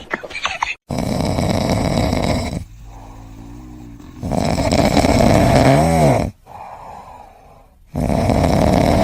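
A sleeping pet snoring: three long, loud snores in a slow rhythm, with quieter breaths between them.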